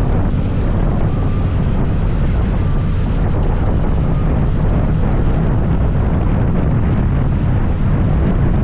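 Scooter engine running steadily while riding, under loud wind rumble buffeting the microphone.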